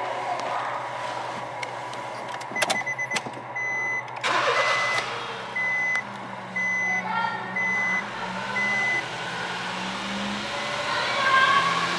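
A Honda Life Diva Turbo's 660 cc turbocharged three-cylinder engine starts after a few clicks and settles into a steady idle. A dashboard warning chime beeps about once a second through the start and then stops. The engine picks up briefly near the end.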